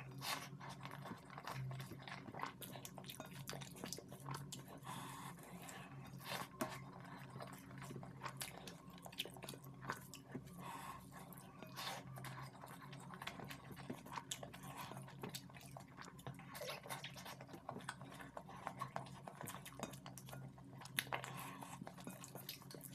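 Close-miked chewing of curried rice, with irregular short wet clicks and the sound of fingers scooping the rice on a steel plate, over a steady low hum.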